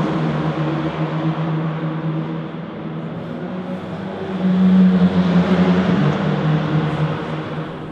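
Jaguar XJR-14's 3.5-litre V8 racing engine running at low, steady revs, growing louder about halfway through and then easing off again.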